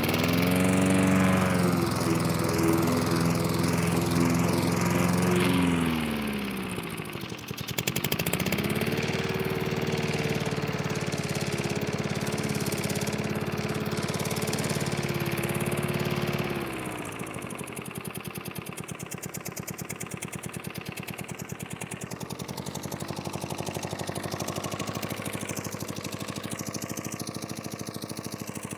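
Petrol engine of a Mountfield Emperor push lawn mower running while mowing. Its speed rises at the start, holds steady, sags for a moment around six seconds, and picks back up. About two-thirds of the way through it drops to a lower, quieter steady speed.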